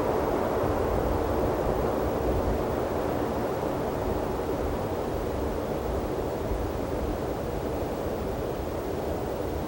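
Wind blowing across binaural microphones: a steady low rush with uneven rumble underneath, easing slightly toward the end.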